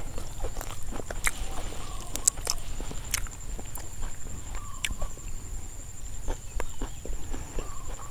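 Close-miked eating sounds: irregular wet clicks and smacks of chewing and lip movement as someone eats a minced lemongrass salad with fresh leaves by hand. A faint steady high-pitched tone runs underneath.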